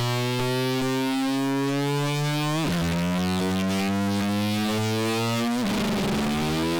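Synthesizer tone in intro music, rising slowly in pitch and dropping suddenly twice, like an engine shifting up through the gears.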